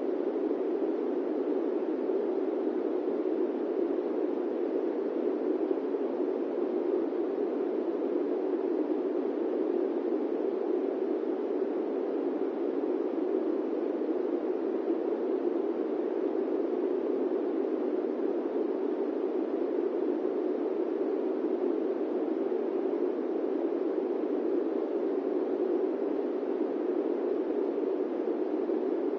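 Steady airplane-cabin white noise: an even, unchanging rushing hiss, centred low in pitch, with no tones or separate events.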